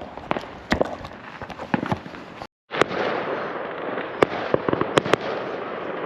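Bonfire Night fireworks going off, many sharp bangs and cracks at irregular intervals. The sound drops out for a moment about halfway, then comes back as a denser crackle with a few louder bangs.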